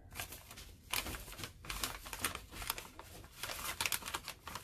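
Crinkling and rustling with many small irregular clicks, as something is handled, growing louder near the end.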